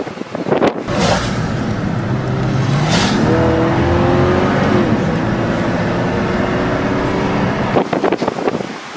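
A car engine accelerating: its pitch climbs for about a second, starting some two and a half seconds in, then holds steady, over a loud rushing noise that fades out near the end.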